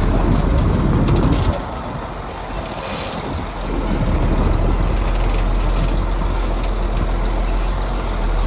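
Heavy diesel construction machinery running loudly. It eases off about a second and a half in, then builds back up and holds steady from about three and a half seconds in.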